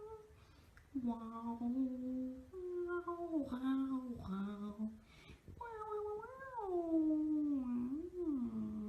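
Cat yowling in a series of long, drawn-out calls, about five in a row, with the pitch wavering and sliding within each.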